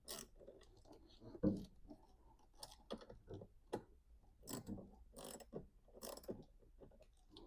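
Faint, irregular clicking of a socket ratchet working a 10 mm battery terminal nut loose, in short runs with small metal knocks between.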